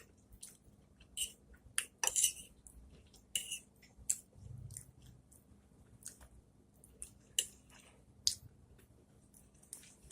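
Close-miked eating: mouth clicks and wet smacks of chewing, in short irregular bursts, with a light clink or two of cutlery or dishes.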